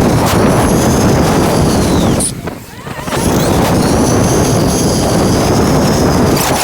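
Wind rushing over the microphone while riding an electric dirt bike, with the motor's high whine rising and falling above it. The rush eases off briefly about two and a half seconds in, then returns.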